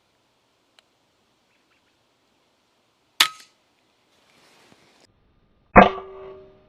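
Two sharp shots from a .22 PCP air rifle, about two and a half seconds apart. The first is a short crack; the second is louder, with a low thud and a brief ringing tone that dies away.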